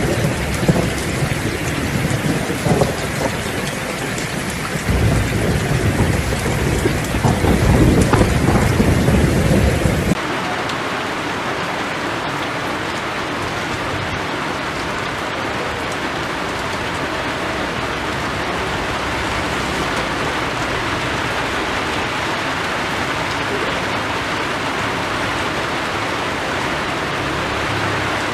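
Heavy rain with rolling thunder rumbling underneath for about the first ten seconds, then an abrupt change to steady rain alone, without thunder.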